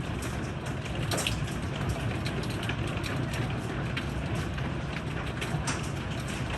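Heavy thunderstorm rain falling steadily, with frequent sharp ticks of drops striking a hard surface.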